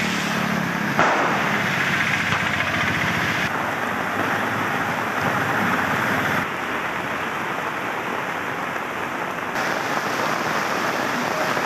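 Heavy rain pouring onto a wet paved street, a dense steady hiss. Its level and tone jump abruptly a few times where shots are spliced together. In the first second a small engine hum sits under it, from an auto-rickshaw driving through the water.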